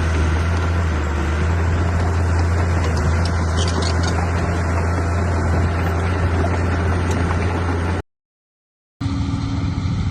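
Heavy diesel engine of the dump truck or bulldozer running steadily with a deep, constant hum. About eight seconds in, the sound cuts out for a second, then engine sound resumes with a slightly different tone.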